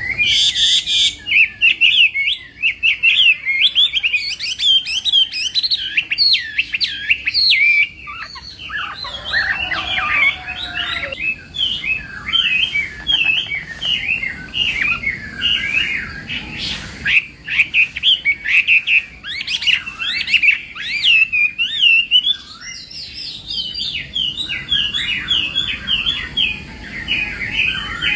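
Chinese hwamei singing its challenge song: a long, loud stream of rapid, varied whistled phrases with quick rising and falling slurs, barely pausing.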